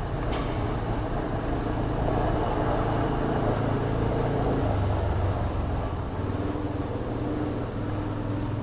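Truck engine running steadily, a low even hum with no revving, and one brief click just after the start.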